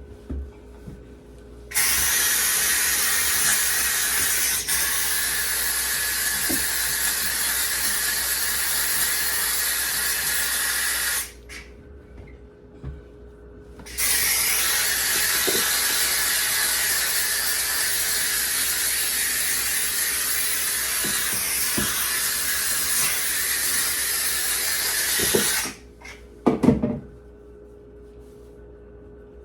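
McCulloch steam cleaner jetting steam in two long hissing blasts, the first about nine seconds, the second about twelve, with a short pause between. A few knocks follow near the end.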